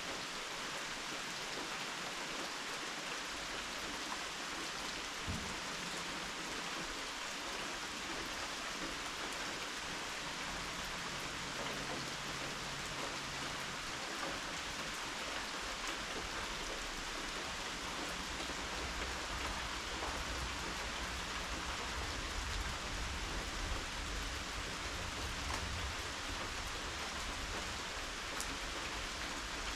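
Steady rain falling and pattering on surfaces, an even hiss with no breaks. A low rumble comes in underneath during the second half.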